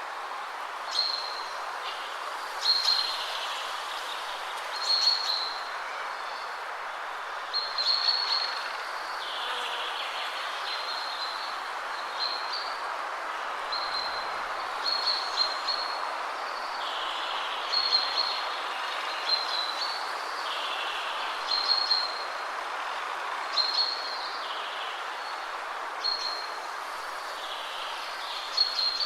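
Steady wind rustling through the trees, with a songbird repeating short high calls over it every second or two.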